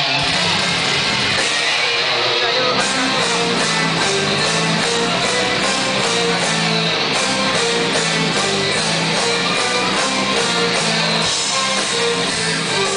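Live band music: an amplified instrumental introduction with electric guitar over a steady beat, heard loud and dense through a handheld recording in the venue.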